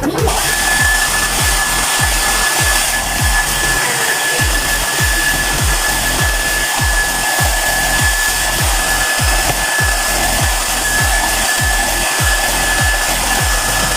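Gaabor handheld hair dryer running steadily: a continuous blowing rush with a thin, steady high whine from its fan motor.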